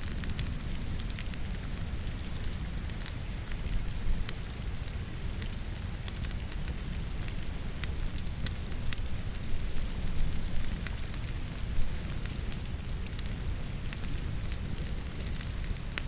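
Wood fire crackling in a fireplace, with frequent sharp snaps and pops, a louder pop about four seconds in and another near twelve seconds, over a steady background of falling rain.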